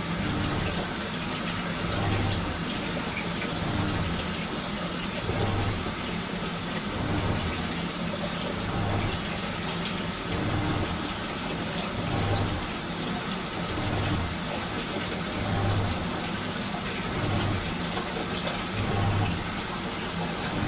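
Washing machine running a strong wash cycle: a steady swish of water with a low surge about every second and a half as the drum turns.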